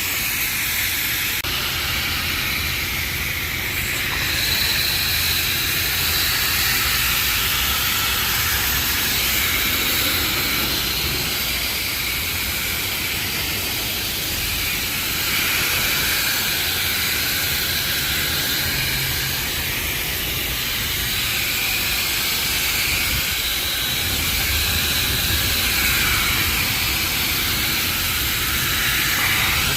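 High-pressure rinse wand at a self-serve car wash spraying water onto a car: a steady hissing spray that swells and eases a little as the jet moves over the bodywork.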